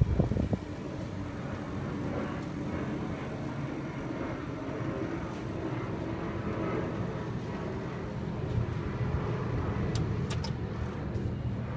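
Danrox DU300B gas heater running: a steady hum and rushing noise, with a few light clicks about ten seconds in.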